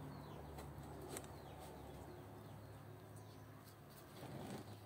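Quiet outdoor ambience: faint, short bird chirps and a few light clicks over a low background hum.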